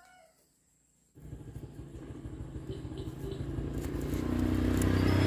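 A vehicle engine running, starting abruptly about a second in after a brief silence and growing steadily louder.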